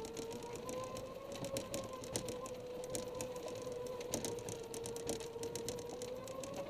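Golf cart's motor whining at a steady, slightly wavering pitch as it drives, with many light clicks and rattles over it.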